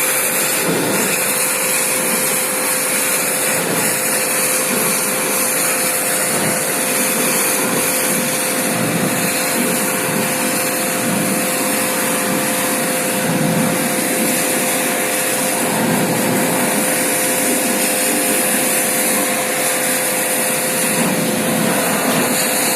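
Small electric motor running steadily, a constant whine over a strong hiss.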